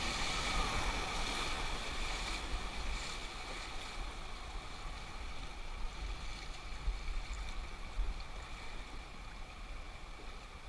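Whitewater river flowing and splashing around an inflatable raft as it floats between rapids, a steady rush of water over a low rumble.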